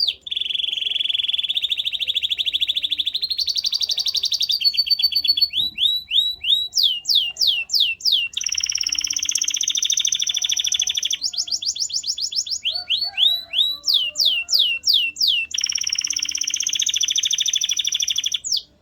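Canary singing a long song of fast trills and runs of quickly repeated sweeping notes, one phrase after another. It stops abruptly near the end.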